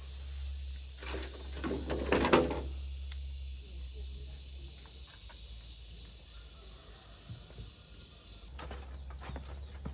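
Insects, crickets by their sound, chirring steadily in the background. A brief rustling clatter peaks about two seconds in.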